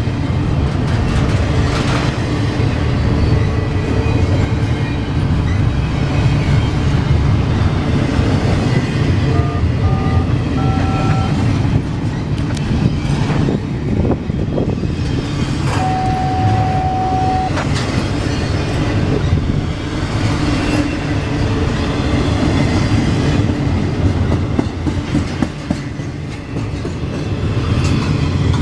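A train rolling past, a steady rumble of wheels on rails with clickety-clack. About ten seconds in come a few short high beeps, and a little later a single steady tone sounds for under two seconds.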